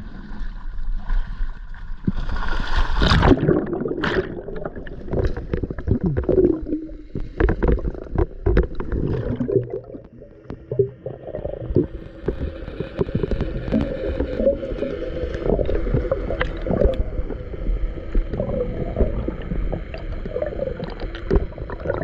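Water sloshing and gurgling, with many sharp knocks and clicks through it.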